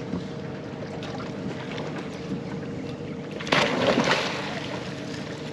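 A motorboat running on open water, a steady engine hum under wind and water noise, with a louder rush of spray or wind about three and a half seconds in.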